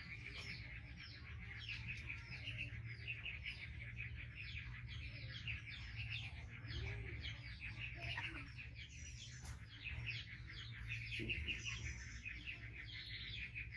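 Small birds chirping continuously, many short downward chirps a second, over a low steady hum.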